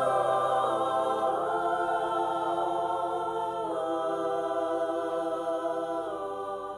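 Music: a held, choir-like sung chord without words, its notes shifting slightly and slowly fading near the end.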